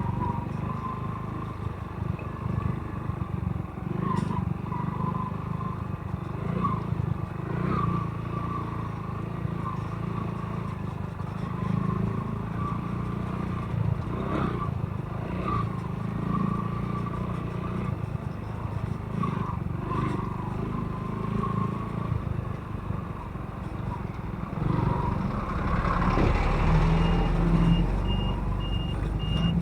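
A motorcycle running steadily along the road, with a low rumble throughout. Near the end a heavier rumble swells, and a reversing alarm beeps about twice a second, typical of construction machinery backing up.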